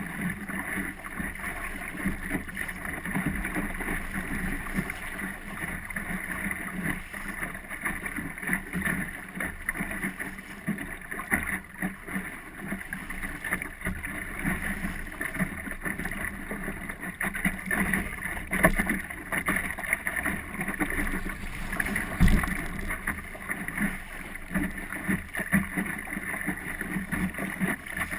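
Wind on the microphone and water rushing along the hull of an Optimist sailing dinghy under way, with many small irregular knocks and rattles and one low thump about three quarters of the way through.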